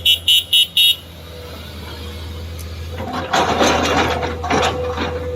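Diesel machinery running steadily, with a rapid beeping alarm, about four beeps a second, that stops about a second in. From about three seconds in comes a loud, irregular clattering rush, as when an excavator bucket dumps mud and stones into a truck's steel bed.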